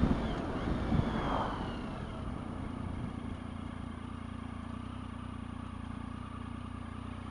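Triumph Tiger 1050 Sport's inline-triple engine through an SC-Project aftermarket exhaust: the engine note falls away over the first two seconds or so, then settles into a steady, even low running note, like an idle.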